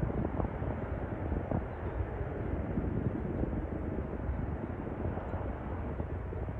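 Jet airliner engines heard as a steady, low rumble with no clear tone.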